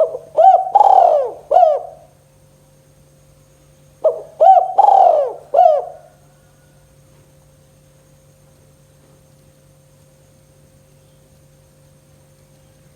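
Spotted dove (tekukur) cooing: two phrases of about four coos each, about four seconds apart, then only a faint steady hum.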